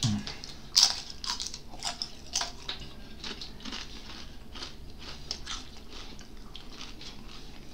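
Close-up crunching and chewing of crispy fried danggit (dried rabbitfish), a run of sharp crisp crunches, the loudest about a second in.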